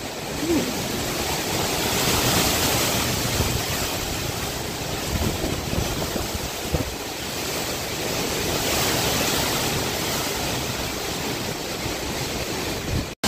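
Hurricane-force wind blowing hard in swelling gusts, buffeting the microphone with a low rumble. It cuts out abruptly for a moment near the end.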